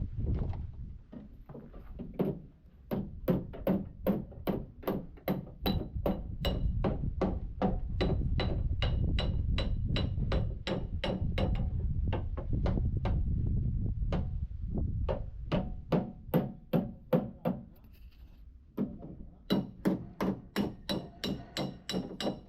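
Hammer blows on metal, struck in a steady run of about two to three a second with a faint ringing after the strikes, pausing briefly near the end before starting again.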